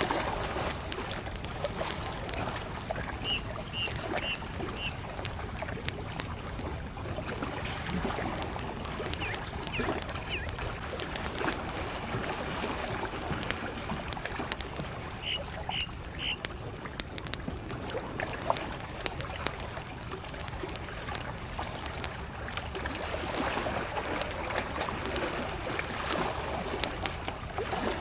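Campfire crackling with frequent sharp pops over small waves lapping at a lakeshore. A bird calls in a short series of high notes twice, a few seconds in and again around the middle.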